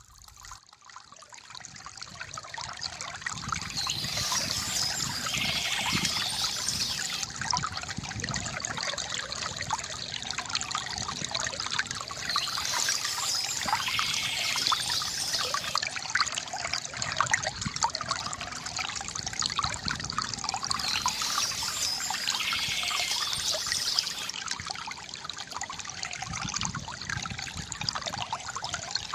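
Water from a bamboo fountain trickling and splashing steadily into a basin. It fades in from near silence over the first few seconds.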